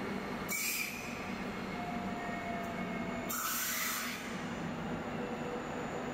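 NordWestBahn ET 440 electric multiple unit pulling out of the station and moving away, with a steady low hum. Two brief high hissing bursts come about half a second in and again just after three seconds.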